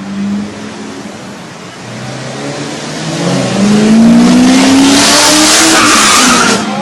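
Race car engine accelerating, rising steadily in pitch as it passes close by with a loud rush of noise that drops off suddenly near the end.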